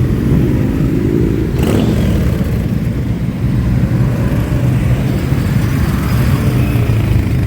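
Many motorcycle engines running together, a steady low rumble, with a brief louder burst of noise about two seconds in.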